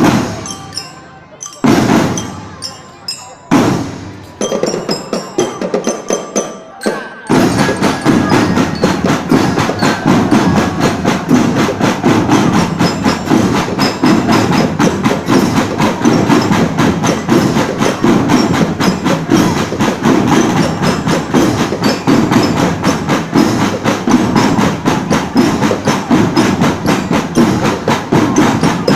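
Marching drum band: a few separate heavy drum and cymbal hits with ringing bell-lyra notes, then about seven seconds in the whole drum line starts playing together in a dense, steady beat of snare and bass drums.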